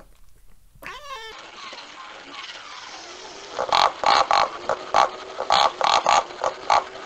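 A cat meows briefly in the first second. Then, after a cut, pigs grunt in a quick run of about a dozen short, loud grunts from about three and a half seconds in, as they root in grass.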